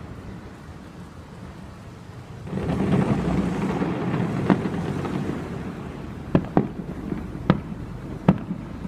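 Aerial fireworks going off: a deep rolling boom swells up about two and a half seconds in and rumbles on, then a run of sharp cracks follows, several in quick succession in the last few seconds.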